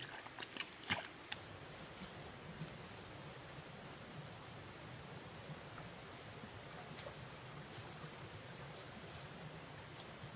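A few sharp clicks in the first second or so, then a steady outdoor background of insects chirping in short groups of two to four high notes.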